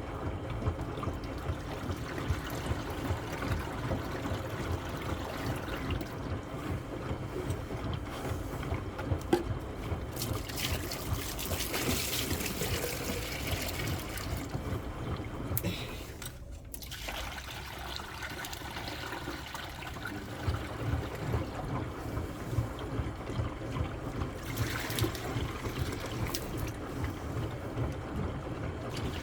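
Water trickling and splashing in a washing machine running its wash cycle as more water is added to the tub, with a steady low rumble from the machine underneath. The water noise grows louder for a few seconds near the middle and again briefly near the end, and drops out for a moment just past halfway.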